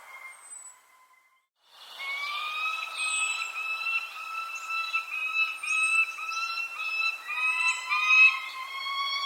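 Birds calling: a run of repeated, even-pitched notes about twice a second, with thin, high, falling chirps over them. A brief near-silent gap comes about a second in.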